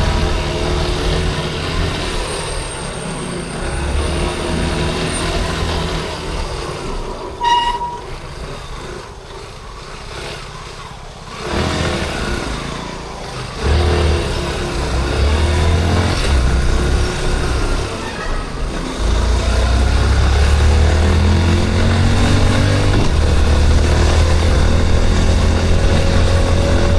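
Yamaha Crosser 150's single-cylinder engine running under the rider in city traffic. It drops to a quieter stretch about eight to eleven seconds in, then picks up again, with the pitch rising as it accelerates, and runs louder and steady through the last third. A short beep, like a vehicle horn, sounds about seven and a half seconds in.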